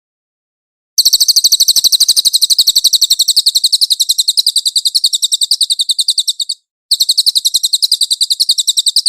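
Cililin songbird singing a fast, high-pitched trill of evenly repeated chirps, about ten a second. It starts about a second in and breaks off briefly about two-thirds of the way through before resuming.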